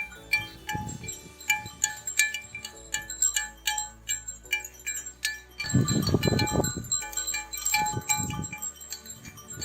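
Tinkling wind-chime background music, with low rumbling sounds that come and go, the loudest about six seconds in and another about eight seconds in.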